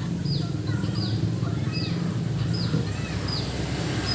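A bird calling repeatedly, short high notes that slide downward about once every 0.7 s, over a steady low mechanical hum.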